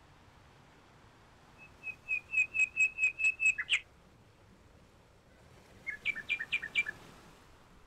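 A bird chirping in two quick runs of repeated high notes, about five a second. The first run of about ten notes comes about two seconds in; a shorter run of about six notes comes near the end.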